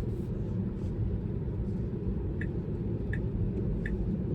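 Steady low road rumble inside a moving Tesla's cabin; about halfway through, the turn-signal indicator starts ticking, about three ticks every two seconds, as the car signals for a left turn.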